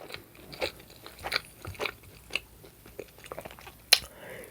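A person chewing a bite of ribeye steak close to the microphone: irregular wet mouth clicks and smacks, with one sharper click near the end.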